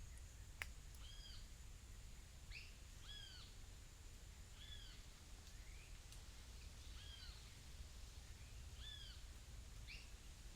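A bird repeating short, arched calls, about one a second, over a faint, steady low background hum. There is a single sharp click near the start.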